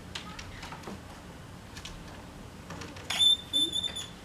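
Light handling clicks and knocks, then a high-pitched squeak broken into a few short pieces about three seconds in.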